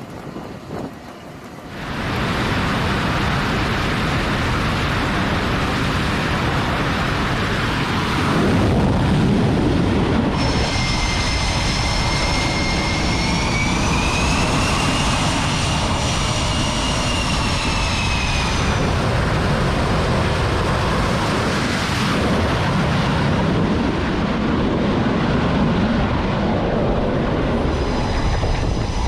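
Jet aircraft engines running with a loud, steady roar, starting about two seconds in; a high turbine whine rises and then falls away between about a third and two-thirds of the way through, and comes back near the end.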